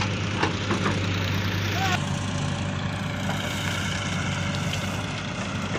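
JCB 3DX backhoe loader's diesel engine running steadily with an even low hum.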